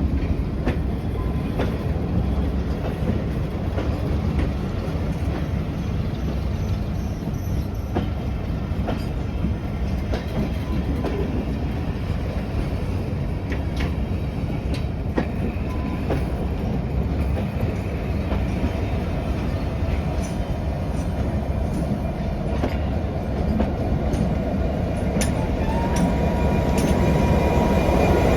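Diesel-hauled train running on the rails: a steady low rumble with scattered wheel clicks over rail joints. Near the end it grows louder and a steady high whine joins in.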